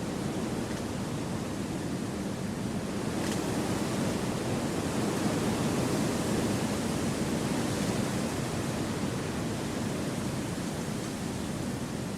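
Wind blowing through forest trees: a steady, even rush that swells gently in the middle and eases a little toward the end.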